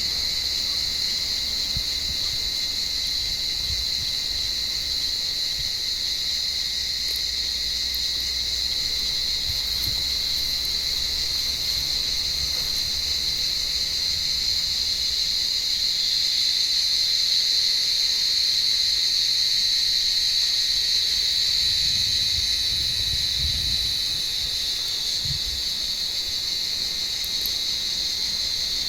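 Cicadas singing: a steady, high-pitched drone, a little louder around the middle.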